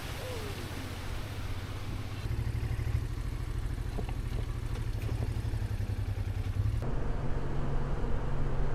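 Honda Transalp XL650's V-twin engine running as the motorcycle rides along, over a steady hiss of wind. It gets louder about two seconds in and again near the end.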